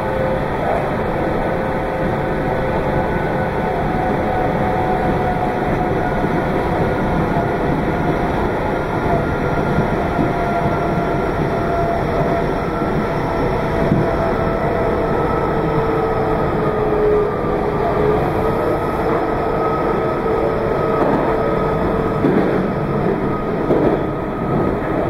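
Meitetsu 2200 series electric train running, heard from on board: steady wheel and running noise with a motor whine whose pitch drifts slowly lower.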